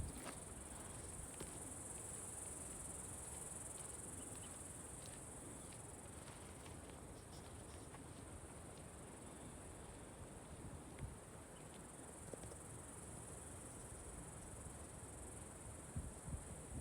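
Faint, steady high-pitched insect chorus, a continuous trill with no breaks, over soft low background noise.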